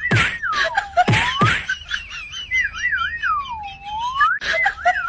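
Whistling: a high swooping tune that dips low and climbs back again several times, cut by a few sharp snapping clicks near the start and again near the end.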